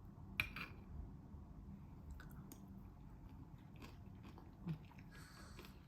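Faint sounds of someone eating: a bite with a light crunch and chewing, with a sharp click about half a second in.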